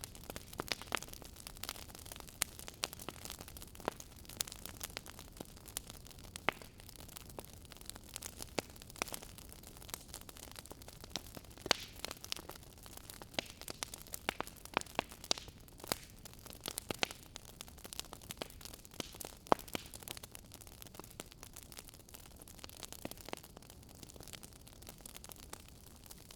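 Wood fire crackling in a fireplace: steady soft hiss with frequent irregular sharp pops and snaps.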